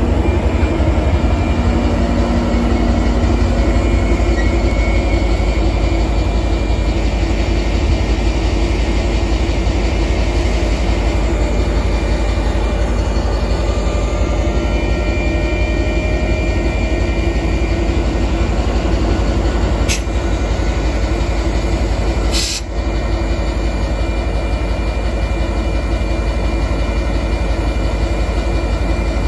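Metra F59PHI diesel-electric locomotive and its bilevel commuter cars, running with a steady, loud low engine hum and some wheel squeal from the rolling cars. Two sharp knocks come about two-thirds of the way in, a couple of seconds apart.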